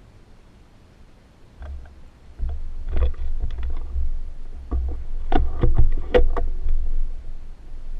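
Handling noise on the camera and gear: low rumbling thumps with a run of sharp clicks and knocks that start about a second and a half in.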